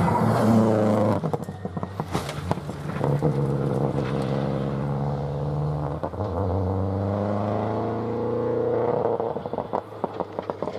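Rally car engine accelerating hard, its note climbing twice as it pulls through the gears. Bursts of sharp popping and crackling come when it comes off the throttle, a second or so in and again near the end.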